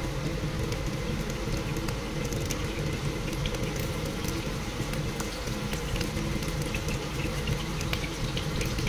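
Strips of pressed tofu frying in oil in a stainless wok: a steady gentle sizzle with scattered small pops over an even low rumble.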